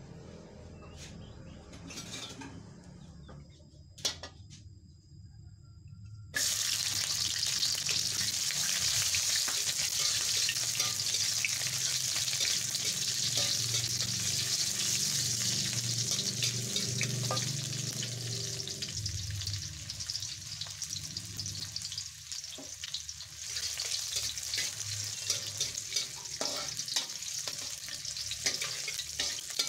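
Sliced ingredients hitting hot oil in a wok and sizzling hard. The sizzle starts suddenly about six seconds in, after a few quiet clicks and knocks, and runs on with occasional clicks of a spatula in the pan.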